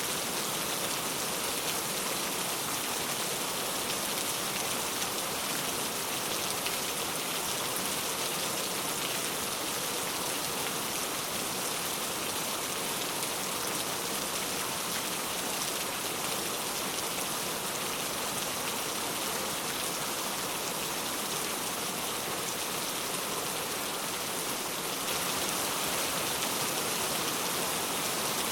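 Steady rain falling, a dense, even hiss of many drops with no thunder, getting slightly louder near the end.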